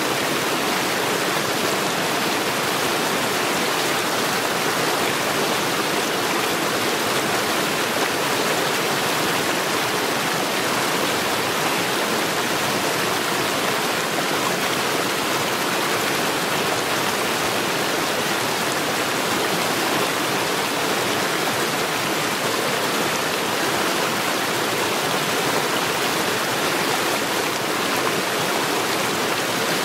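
Mountain stream rushing steadily over stones, a constant even wash of flowing water.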